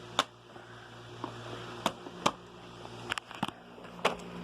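Sharp plastic clicks and knocks, about six spread irregularly over four seconds, from the parts of a Hoover WindTunnel Whole House Rewind upright vacuum being handled and fitted back together, over a low steady hum.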